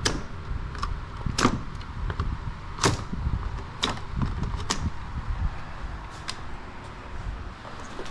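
Sharp plastic clicks and knocks, about five strong ones a second or so apart with fainter ticks between, as relays are worked loose from the Chrysler Crossfire's relay control module. A low steady rumble runs underneath.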